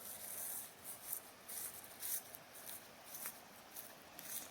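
Footsteps crunching on creek gravel, short scratchy steps about twice a second over a faint steady hiss.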